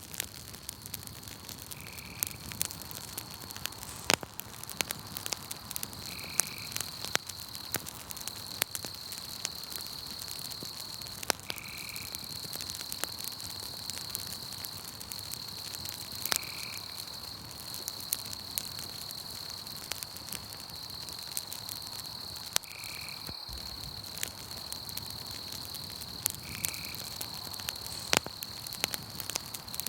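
Campfire crackling, with irregular sharp pops, over a steady high insect trill. A short chirp repeats about every four to six seconds.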